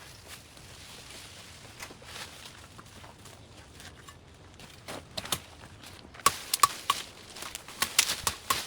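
Overgrown vines and brush being cut back: a few scattered sharp chops, then a quick, loud run of them from about six seconds in.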